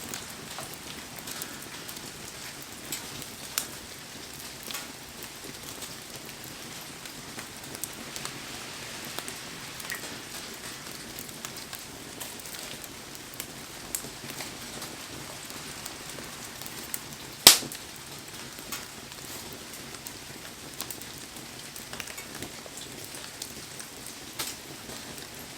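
Steady hiss of heavy rain falling around a wood fire, with scattered crackles and pops from the burning wood and one sharp, much louder pop about two-thirds of the way through.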